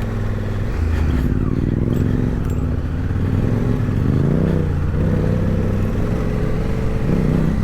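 Adventure motorcycle engine running under throttle, its pitch rising and falling as the rider gets on and off the gas.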